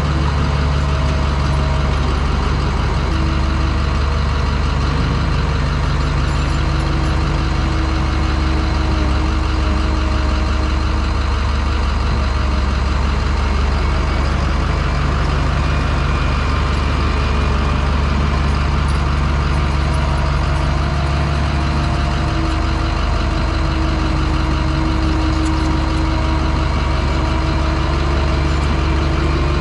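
A truck's diesel engine running steadily at a constant speed, a continuous low, even drone with no revving.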